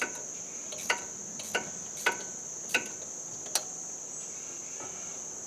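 Steady high-pitched insect chirring, with about six sharp metallic clicks over the first four seconds from hand tools working on the tractor.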